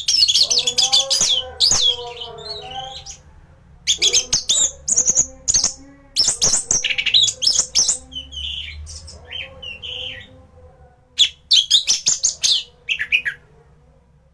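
Orange-headed thrush (anis merah) singing vigorously: rapid, high-pitched phrases of whistles and chirps in bursts with short pauses. Fainter, lower drawn-out calls sound beneath the song at times.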